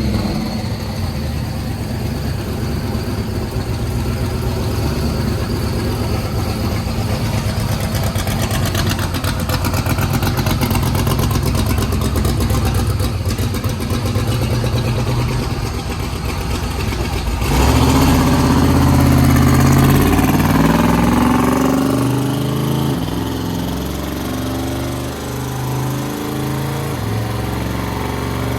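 Twin-turbo Corvette Z06 V8 running on a chassis dyno, idling steadily, then getting louder with uneven changes in engine speed from a little past halfway.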